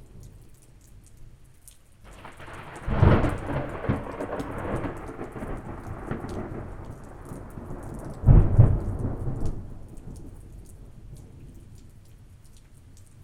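Thunder rolling over steady light rain, with a sharp loud clap about three seconds in and another about eight seconds in, the rumble dying away after about ten seconds.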